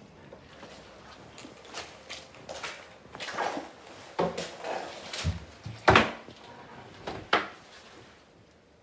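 Irregular knocks, scrapes and clatter of things being handled and shifted about in a small room, with the sharpest knock about six seconds in.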